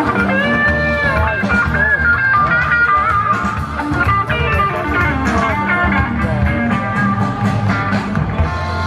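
Live blues band playing an instrumental break: a lead guitar solos with bent notes over bass and drums.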